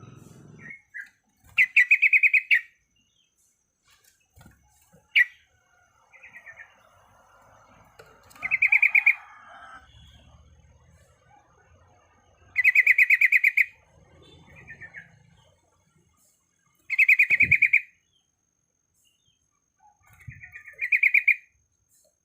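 Yellow-vented bulbul (trucuk) singing: about five loud, rapidly pulsed rolling phrases separated by pauses of a few seconds, with short single notes in between.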